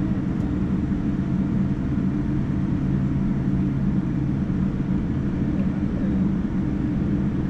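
Boeing 787-9 cabin noise from a seat by the wing: a steady low engine drone with no change in level, just before the takeoff.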